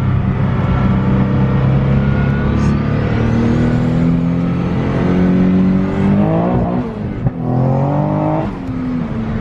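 Twin-turbocharged Nissan 370Z V6, heard from inside the cabin, running under steady load. About six seconds in its pitch climbs steeply, drops abruptly around seven seconds, then climbs again and falls back near the end.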